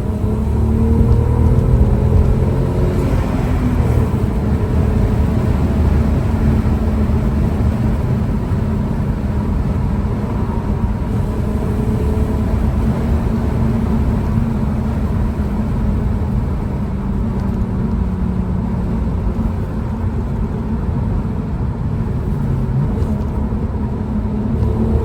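Audi A3 3.2's VR6 engine running through an exhaust with the middle silencer deleted, holding fairly steady revs with a low, steady drone. The pitch shifts slightly near the start and again near the end.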